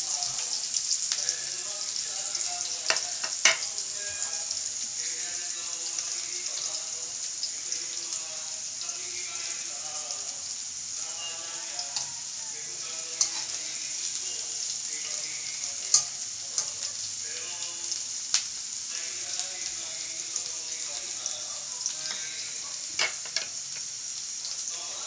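Chopped red onions sizzling in oil in a metal wok, with a steady hiss. A metal slotted spatula stirring them clinks and scrapes sharply against the pan several times.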